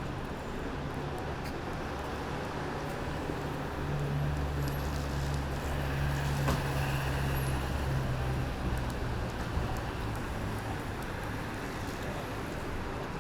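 A motor vehicle's engine running close by in the street, a low hum that grows louder about four seconds in and fades again after about eight, over general traffic noise.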